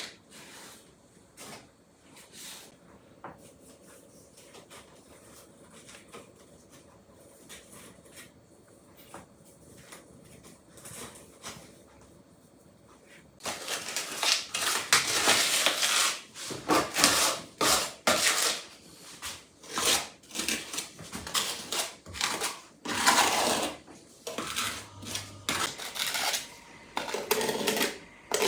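Hard objects being handled: a few faint clicks, then from about halfway in a loud, irregular run of clattering knocks and scraping.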